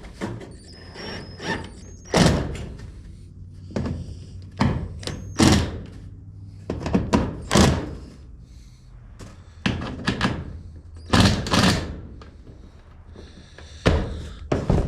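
Irregular heavy thuds and bangs on corrugated metal roofing, about a dozen and often in pairs, as a loose roof panel is worked and fastened down.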